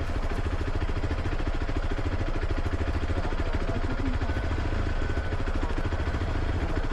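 Vehicle engine running steadily at a low, even speed.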